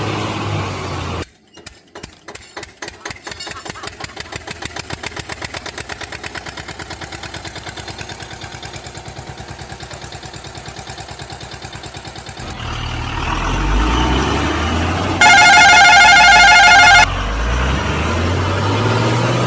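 A truck engine starting: slow chugging pulses that quicken into a fast, steady running beat. A deeper revving rumble then takes over, and a loud horn with a wavering pitch sounds for about two seconds near the end.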